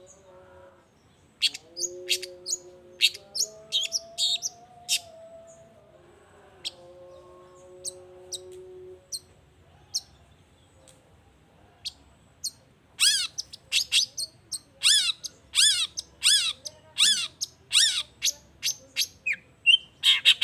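Long-tailed shrike (cendet) singing: scattered sharp, high notes at first, then from about two-thirds in a fast run of loud repeated calls, about two a second, each sliding down in pitch. A faint low steady tone holds underneath in the first half.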